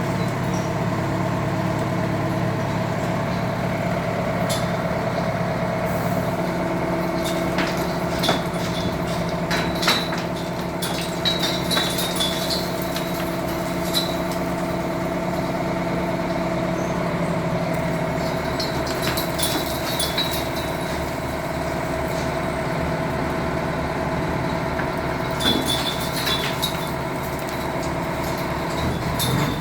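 Heavy engine running steadily, its note shifting about six seconds in, with scattered sharp metallic clinks and knocks.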